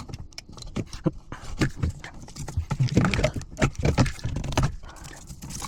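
A run of irregular knocks and clunks from hard objects being handled, coming thicker and louder after about three seconds.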